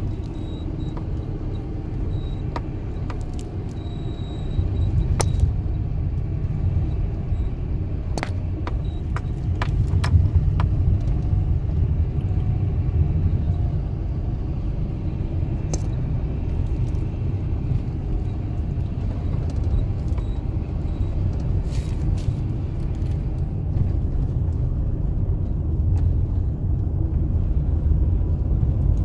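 A VW Golf Plus Mk5's ventilation blower running at a low setting over a steady low rumble of the car, with a faint wavering squeak from the blower, which squeaks at low fan speeds. A few sharp clicks come through at scattered moments.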